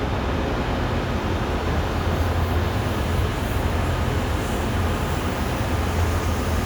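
Steady low rumble of trains at a railway station, with no sudden events.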